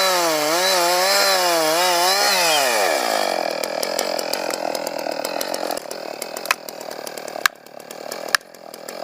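Chainsaw revving hard with its pitch wavering up and down, then dropping about two and a half seconds in as it slows and runs on lower and rougher, as a saw does once it bites into wood. Three sharp cracks stand out in the second half.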